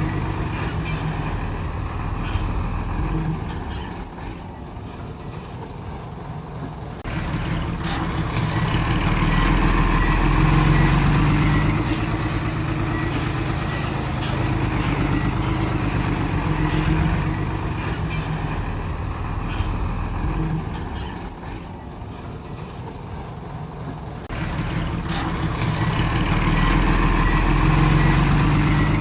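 Heavy diesel earthmoving machine's engine running, easing off for a few seconds about four seconds in and again a little past twenty seconds, then running harder again each time.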